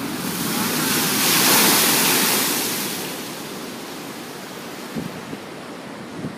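Ocean surf: a wave breaks and rushes up the beach, swelling to its loudest about a second and a half in, then fading over the next couple of seconds into a lower, steady wash.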